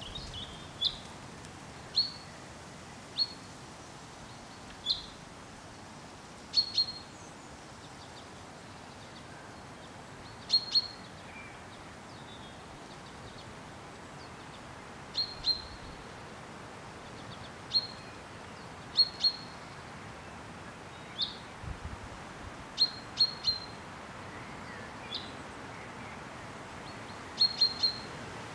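A small bird calling: short, high chirps, singly or in quick twos and threes, every second or two, over a steady outdoor background hiss.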